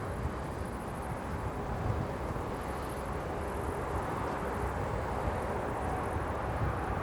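Distant jet airliner engines rumbling steadily, slowly growing louder, with a faint whine coming in near the end.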